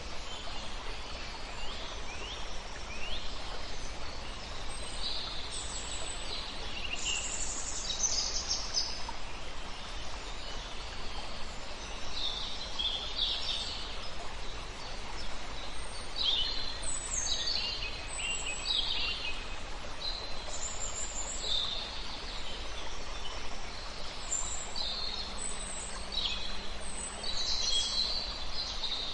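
Several songbirds singing, short chirps and trills coming one after another, over a steady background rush of river water.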